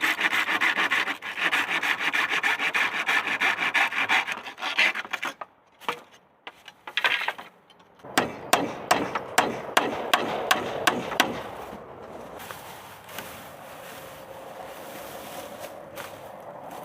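Rapid, rhythmic scraping strokes of a hand tool on wood for about five seconds. After a short pause comes a run of about a dozen sharp ticks, then fainter rustling.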